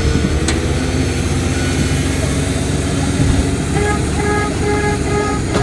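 Heavy earthmoving machinery's diesel engine running steadily, with repeated short beeps starting about two-thirds of the way in.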